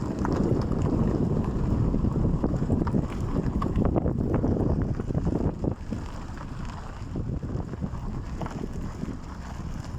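Wind buffeting the microphone: a gusty low rumble that eases a little about halfway through, with scattered faint clicks.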